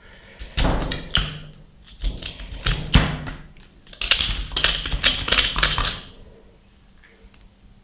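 Irregular knocks, clatter and scraping of tools and metal parts being worked on a disassembled water pump, stopping about six seconds in.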